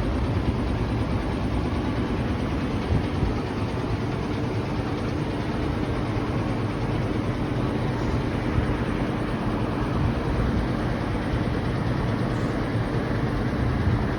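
Diesel engine idling steadily with a low, even rumble.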